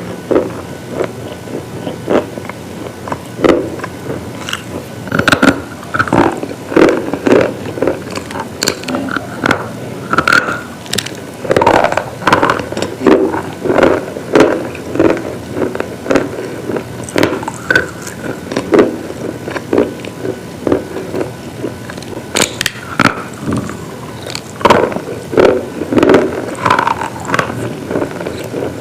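A person biting and chewing hard, brittle pieces close to the microphone: repeated loud crunches and sharp cracks, about two a second, as the pieces break up.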